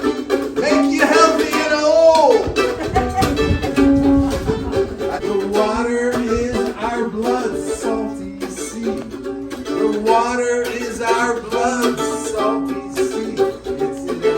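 Music: a strummed ukulele with singing voices.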